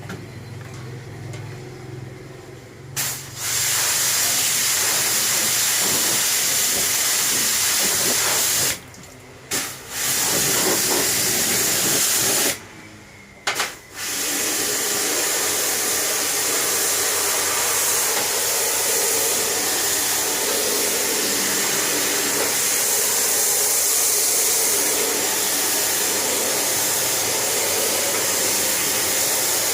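Water jet from a pressure-washer spray nozzle, a loud steady hiss that starts about three seconds in and stops briefly twice, near nine and thirteen seconds.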